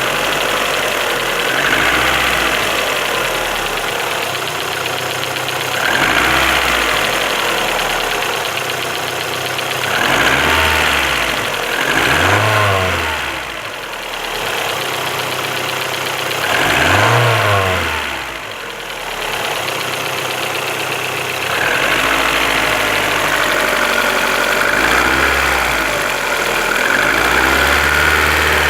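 Car engine idling and revved several times in short blips, then held at a higher speed near the end, while a knocking noise from it is being tracked down.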